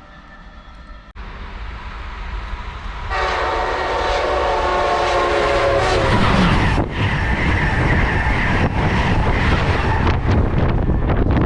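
A train approaching and passing at speed, sounding its multi-note horn for about three seconds; the horn's pitch drops as it goes by, then a loud rush of wheel and rail noise with rapid clicking over the rail joints.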